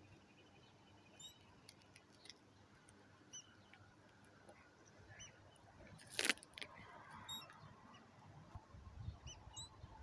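Faint open-air quiet with short, high bird chirps now and then, and a single sharp knock about six seconds in.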